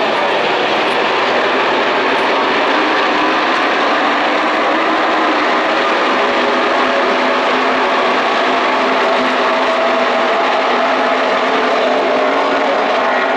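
A pack of NASCAR pickup trucks with V8 race engines running hard together, a loud, steady, dense engine noise with no let-up.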